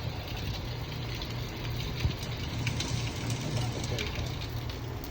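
Rain falling, an even hiss with scattered small ticks, over a steady low motor hum.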